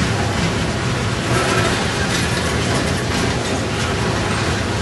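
Freight train boxcars rolling past: a steady noise of steel wheels running on the rails, with light irregular clacking.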